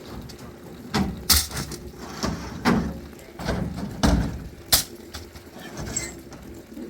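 A run of about seven irregular knocks and thumps over a steady background noise. The sharpest come a little over a second in and around the four-to-five-second mark.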